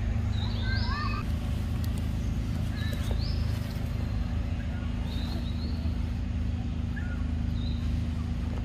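Forest birds calling in short rising chirps, a few at a time every couple of seconds, over a steady low rumble.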